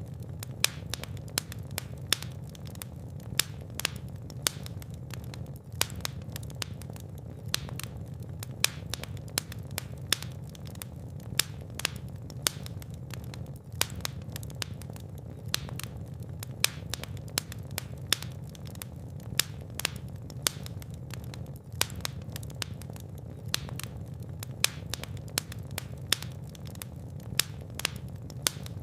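Fire burning in a fireplace, crackling with frequent sharp, irregular pops over a steady low rumble of the flames.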